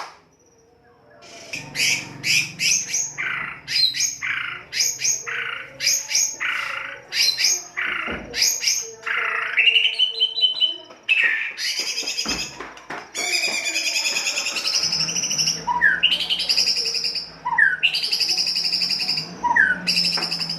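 White-rumped shama singing a harsh lure song: after a brief pause, a run of sharp repeated notes about two a second, then longer rasping phrases broken by quick upward-sliding whistles.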